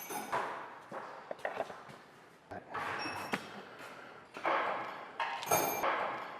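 Repeated metallic clanks and knocks of wheel and tyre work in a car service bay, each strike ringing briefly, with a longer noisy stretch a little past the middle.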